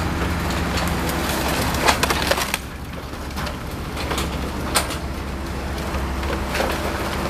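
Excavator engine running steadily while it tears into a house, with wood splintering and debris cracking; sharp cracks come about two seconds in and again just before five seconds.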